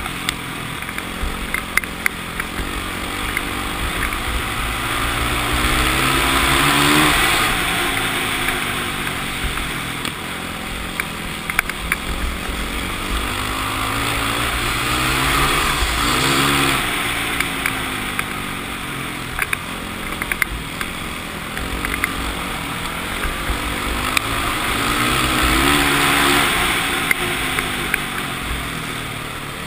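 Yamaha WR450F's single-cylinder four-stroke engine at racing throttle, its pitch rising as it accelerates down each straight and falling as it backs off for the turns, three times over. Wind rush on the helmet-mounted camera swells with the speed.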